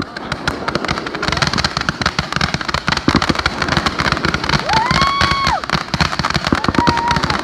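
Fireworks going off in a dense, continuous crackle of rapid pops. Two whistling tones rise, hold and fall away, one in the middle and a shorter one near the end.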